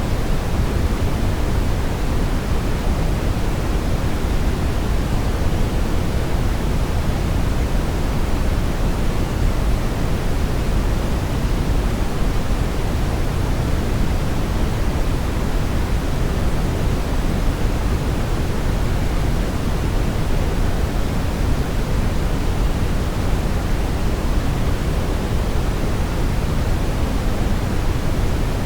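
Synthetic brown noise: a steady, even rushing hiss weighted toward the low end, without change or events.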